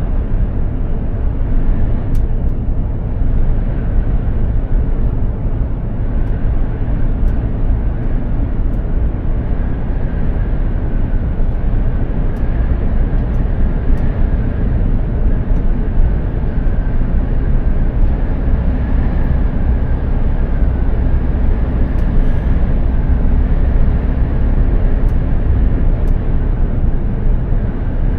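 Mercedes-Benz Actros 2763 truck driving at a steady pace: its diesel engine and the tyres on the road make a steady low rumble, with a faint whine above it.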